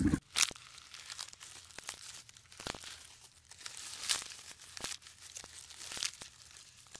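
Leafy branches rustling and twigs crackling in irregular crisp snaps as giraffes strip and chew leaves, after a brief low sound at the very start.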